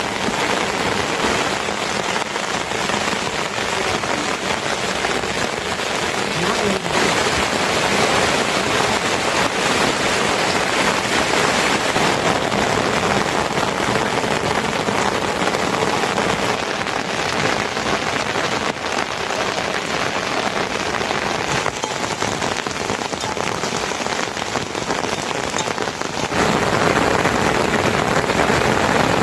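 Steady rain falling, a dense even patter of drops on surfaces; about three seconds before the end it becomes louder and fuller.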